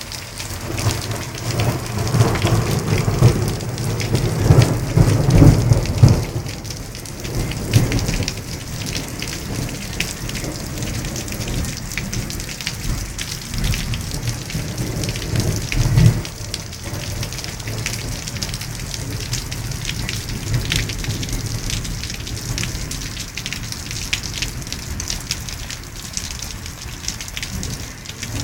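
Rain falling steadily, with fine drop ticks throughout. A long low rumble of thunder builds and fades over the first several seconds, and a brief low boom comes about halfway through.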